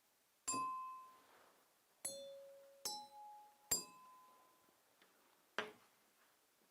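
Glasses struck one at a time, five strikes. The first four each ring with a clear tone at a different pitch and fade over about a second; the fifth is a shorter, duller tap.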